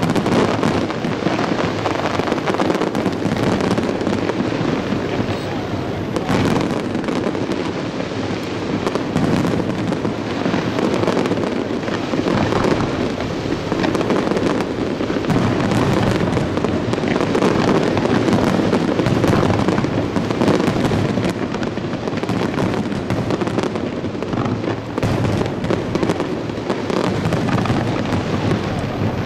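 Aerial firework shells bursting in quick, overlapping succession, a dense unbroken barrage of bangs.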